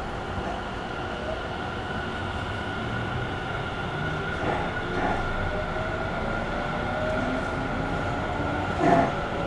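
Running sound of a Tobu 50000-family electric train, heard from inside the passenger car. It runs steadily with a few knocks from the wheels and track, and from about the middle a motor tone climbs slowly in pitch as the train picks up speed.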